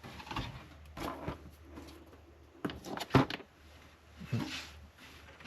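Scattered knocks and clicks of computer hardware being handled and fitted into a PC case, the loudest a pair of clunks a little after the middle.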